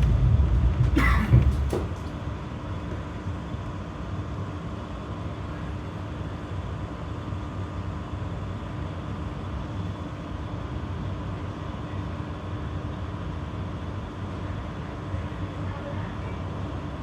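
Inside a GT tram: the low running rumble ends with a couple of short clunks about a second in as the tram comes to a stop. The tram then stands with a steady, quieter electrical hum from its onboard equipment.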